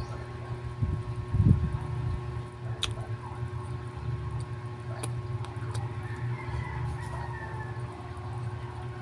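Close-miked chewing of bread: soft low thumps, loudest about a second and a half in, and a few sharp mouth clicks, over a steady low hum.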